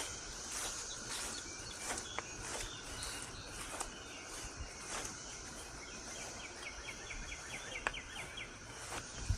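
Cicadas in the trees making a steady high buzzing drone that pulses in a regular rhythm. Near the end a bird gives a quick run of about ten short chirps.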